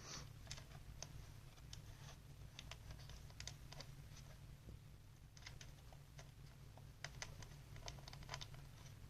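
Faint, scattered small clicks and scrapes of a laptop fan's small plastic cable plug being tried against its socket inside the laptop, over a low steady hum.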